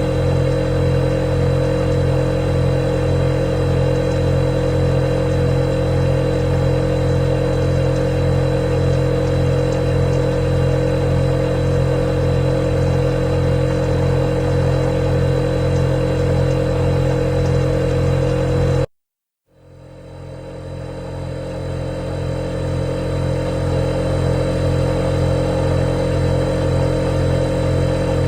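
Refrigerator running with a steady mechanical hum and a thin high whine. About two-thirds of the way through it cuts out abruptly for half a second, then fades back up over a few seconds.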